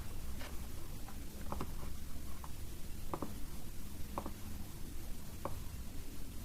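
A handful of short, faint clicks at irregular intervals from working a computer's keyboard and mouse, over a low steady hum of room noise.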